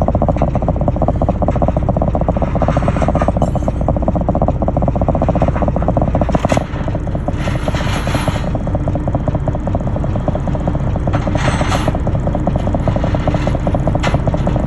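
Heavy truck engine running with a fast, even rattling beat, and a few short hisses over it.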